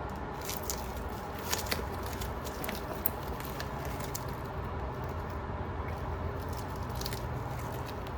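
A stick or spatula scraping leftover epoxy resin out of a plastic mixing cup: scattered light clicks and crackles over a steady low hum.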